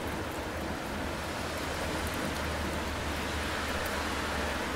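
Steady rain falling on a city street, a dense even hiss with fine drop ticks, over a low steady rumble.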